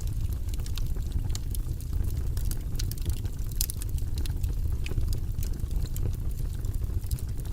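Fire burning in a fireplace: a steady low rumble with frequent sharp crackles and pops.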